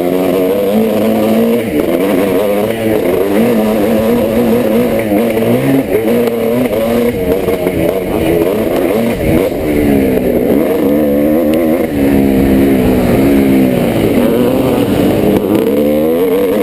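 1986 Yamaha YZ490 two-stroke motocross engine being raced, its pitch rising and falling repeatedly as the throttle opens and closes through the gears.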